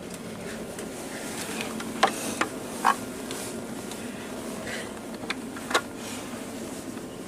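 Electric commuter train running: a steady buzzing hum with several short sharp clicks and knocks, the loudest about two seconds in and near the three-second mark.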